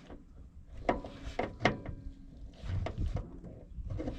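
Loose dump-truck transmission linkage being worked back and forth by hand: a few sharp knocks and clunks about a second in, then duller thuds near the middle. The part is rubbing and bouncing, which they suspect is down to a pin come out.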